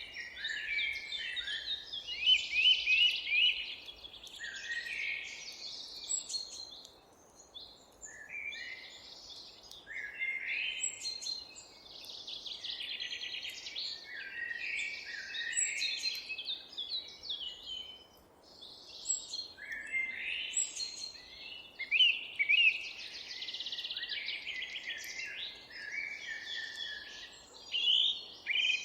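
Songbirds singing almost without pause, overlapping phrases of high chirps and rapid trills, over a faint steady background hiss of outdoor ambience.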